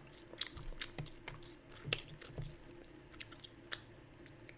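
Close-miked chewing of a sandwich: irregular wet mouth clicks and soft crunches.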